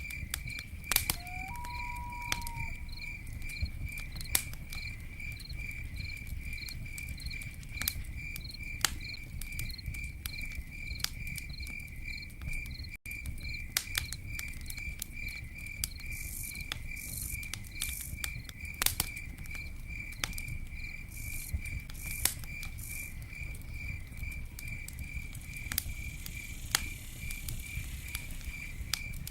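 Campfire crackling with sharp irregular pops over a low rumble, with a cricket chirping steadily at one pitch, about three chirps a second. A short whistled note rises and holds briefly about a second in, and the sound drops out for an instant about halfway through.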